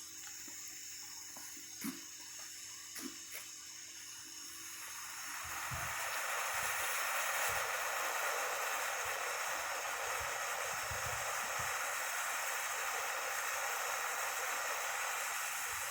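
TNT Fireworks 'Blazer' ground fountain firework: a few faint clicks, then about five seconds in it ignites into a steady spraying hiss of sparks that keeps on.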